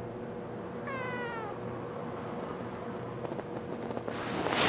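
Ragdoll kitten meowing once, a short high meow that falls in pitch, in reply to a question. A brief rush of noise follows near the end.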